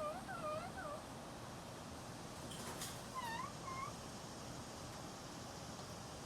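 Pet parrot making short, wavering pitched calls: a quick run of them at the start and two more a little past the middle. A brief scratchy noise comes just before those two.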